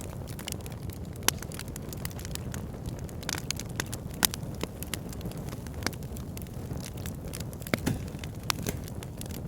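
Backyard fire pit burning and crackling, with sharp irregular pops scattered throughout over a steady low rumble. The loudest pops come about a second in and about four seconds in.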